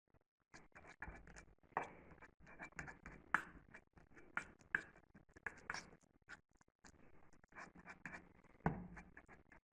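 Irregular scratching and rustling with many small clicks and a few louder knocks.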